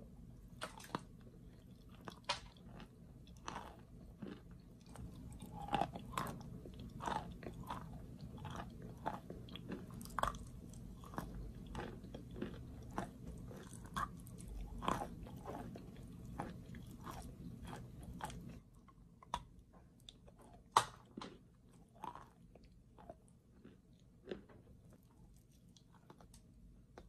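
Chewing and biting chunks of wet chalk: irregular crisp crunches with softer chewing between them.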